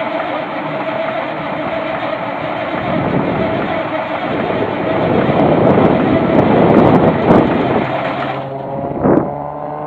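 Large diesel engine running, growing louder and rougher through the middle seconds. Near the end the sound changes abruptly to an engine rising in pitch as it speeds up, with one short knock just after the change.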